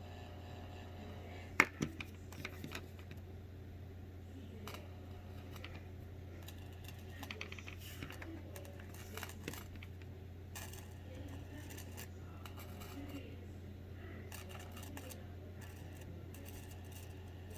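Electrical hum and crackle from an HP 2010i computer monitor's audio as the tip of a plugged-in 3.5 mm cable is touched with something conductive: a steady low mains hum with scattered clicks and scratchy pops, the loudest about a second and a half in.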